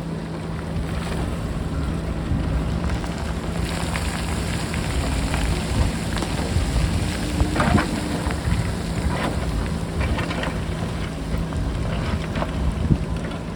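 JCB backhoe loader's diesel engine running steadily under heavy wind buffeting the microphone, with scattered knocks and clattering of rocks.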